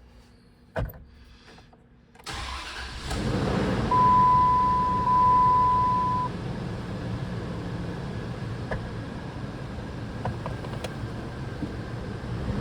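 Dodge 4.7-litre V8 engine starting about two seconds in and settling into a steady idle, after a single sharp click just before. A steady high-pitched tone sounds for a couple of seconds soon after the engine catches.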